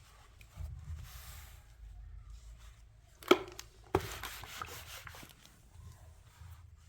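Two sharp knocks about two-thirds of a second apart, the first the loudest, followed by a second or so of lighter clattering and rustling.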